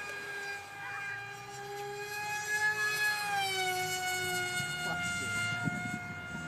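Skyfun RC plane's 2836 2350kv brushless motor and propeller whining in flight at high throttle: a steady high tone with many overtones that glides down a little in pitch about three and a half seconds in.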